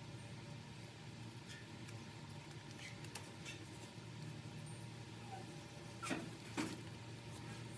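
Faint scattered clicks and light taps over a low steady hum, with two sharper clicks about six seconds in, like small parts being handled at a workbench.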